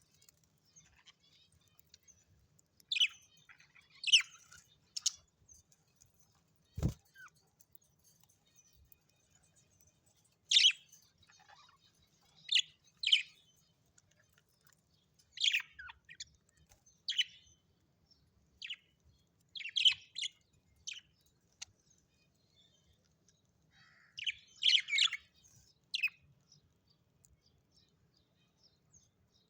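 A bird calling with short, sharp, high chirps in scattered clusters of one to four calls, a few seconds apart. A single knock comes about seven seconds in.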